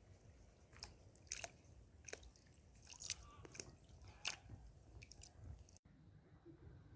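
Faint, scattered crackling clicks, about six of them, over a low rumble.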